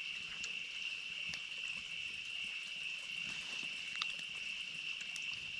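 Steady chorus of night insects, a continuous high-pitched trill, with a few faint clicks.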